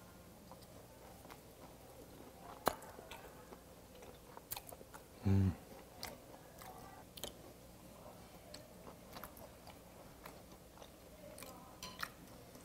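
Chewing of raw beef, with scattered short wet mouth clicks. A short hummed "mmm" about five seconds in is the loudest sound.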